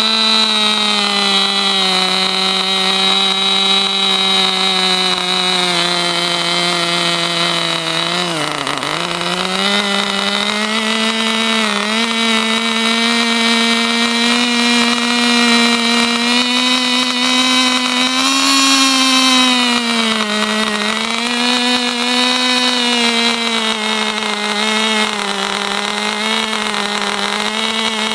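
Kyosho RC engine buggy's 2.5 cc nitro engine revving with no load, a steady high-pitched buzz. Its pitch sags sharply and picks back up about a third of the way through, then climbs briefly and settles again about two-thirds through.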